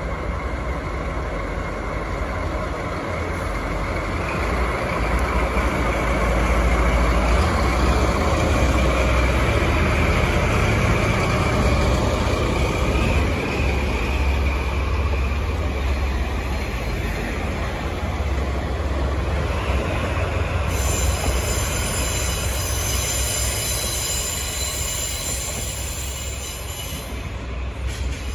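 A diesel locomotive hauling a rake of passenger cars passes close by. The low engine and wheel rumble builds to its loudest in the middle of the pass, then thins as the cars go by, with a thin, high wheel squeal over the last few seconds.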